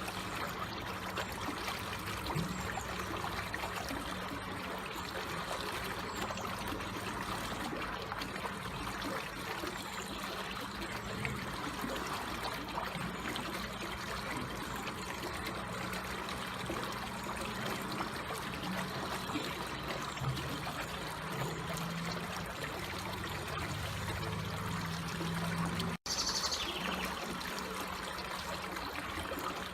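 Slowly flowing water trickling steadily. The sound cuts out for an instant near the end.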